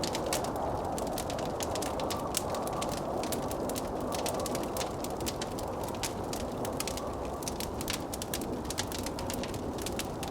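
Wood fire crackling in a fireplace, with many sharp irregular pops and snaps, over the steady rush of blizzard wind.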